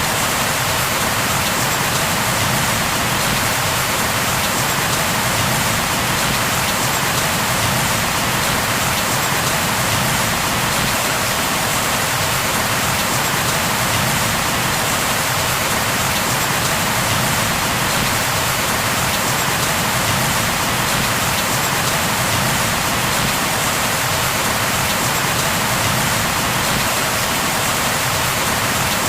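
Steady rain, an even, unbroken hiss of falling rain on a surface.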